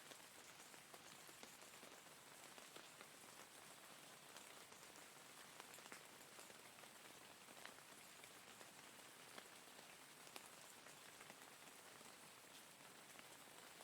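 Steady, soft rainfall, with scattered individual drops ticking through the even hiss.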